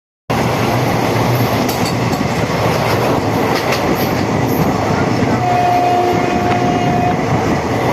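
Moving train running along the rails, a steady dense rattle and rumble. Past the middle a thin steady tone sounds for under two seconds.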